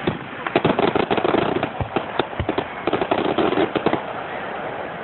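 Fireworks going off: rapid runs of sharp crackling pops in two bursts, about a second apart.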